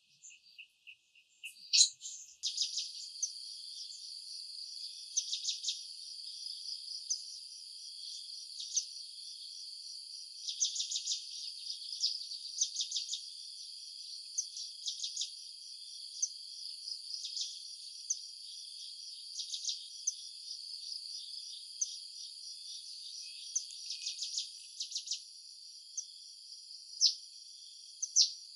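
Nature ambience of a steady, high-pitched insect chorus with bursts of rapid chirping every couple of seconds. The steady part stops about three-quarters of the way through, leaving a few separate chirps.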